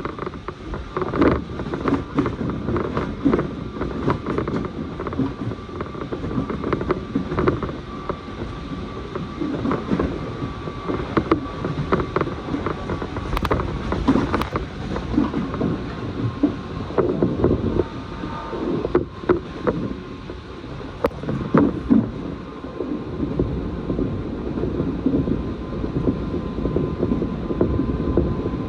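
Electric train running, heard from inside the carriage: a steady rumble of wheels on the track, broken by irregular clacks as the wheels pass rail joints, with a faint steady whine behind it.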